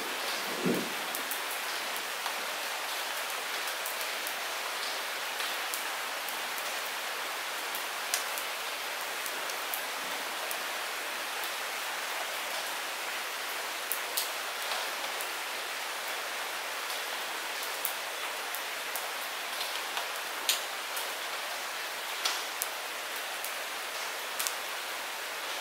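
Light rain falling steadily in a soft, even hiss, with scattered individual drops ticking sharply close by.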